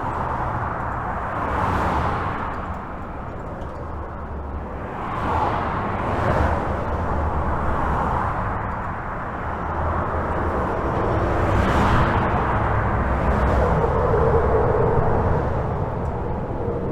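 Steady highway traffic heard from under a bridge: a continuous rush of tyre and engine noise, swelling as individual vehicles pass overhead every few seconds, with a deep rumble underneath.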